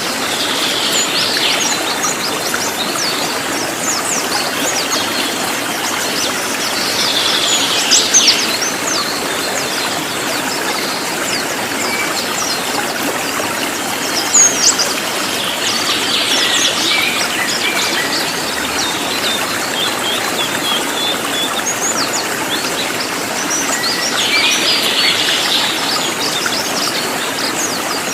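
Cililin song: clusters of rapid, high chirping notes coming every several seconds, with quick sharp calls in between, over the steady rush of a flowing stream.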